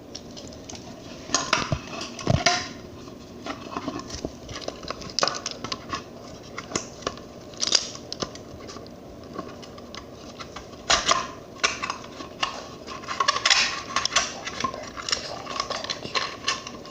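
Hard objects being handled and set down: an irregular string of clicks, knocks and clatters, busiest about a second in and again near the middle and later.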